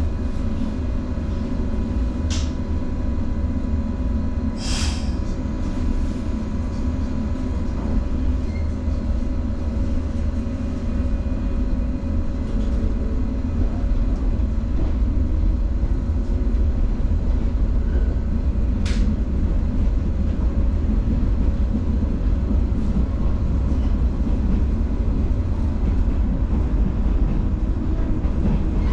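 JR 115 series electric train running: a steady low rumble of wheels and motors with faint steady tones, a few sharp clicks, and the level rising a little about halfway through.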